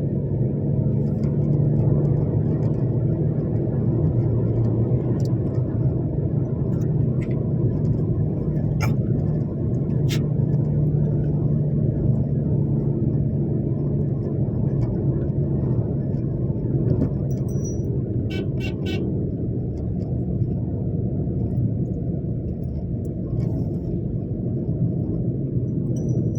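Steady low engine drone of a moving vehicle, with a few faint clicks and a brief run of quick ticks partway through.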